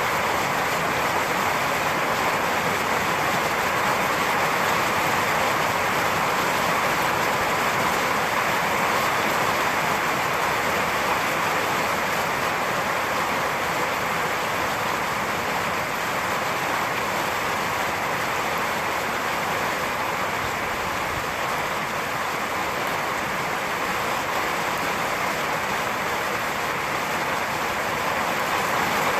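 Steady rainfall, an even hiss with no thunderclaps.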